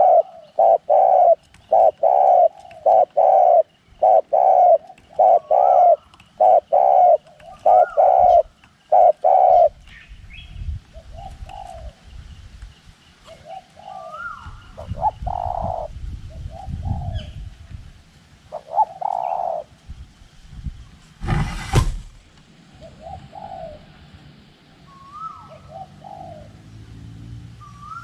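Spotted dove cooing: a loud, even run of low coos, about two a second, for the first ten seconds, then scattered softer coos. Wind rumbles on the microphone in the second half, and a single sharp knock sounds about twenty-one seconds in.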